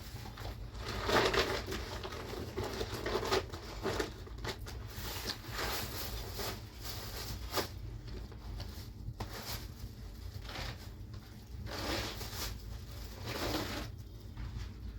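Irregular rustling and light knocks, like things being handled, over a steady low rumble.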